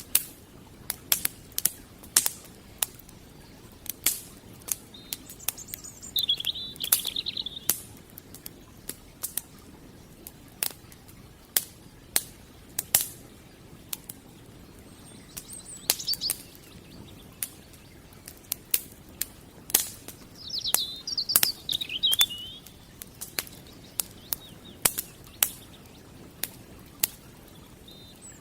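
Wood fire crackling, with irregular sharp pops and snaps over a low hiss. Birds chirp in short bursts several times, loudest around a quarter of the way in and again about two-thirds through.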